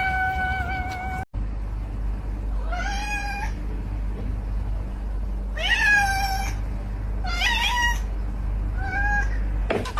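A cat meowing repeatedly in short calls, about one every one to two seconds, over a steady low hum.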